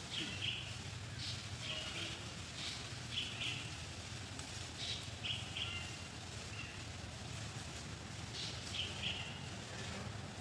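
Small birds chirping in short, high calls that repeat every second or so, over a steady low background hum.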